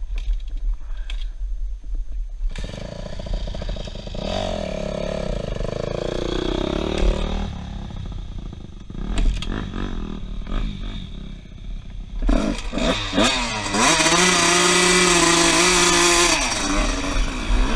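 2003 Honda CR125R's two-stroke 125cc dirt bike engine revving up and down as it rides, with a quieter spell in the middle. About three quarters of the way in it is held at high revs for a couple of seconds, then drops back near the end.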